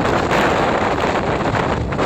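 Strong storm wind blasting across a phone's microphone, a loud, steady rush of noise.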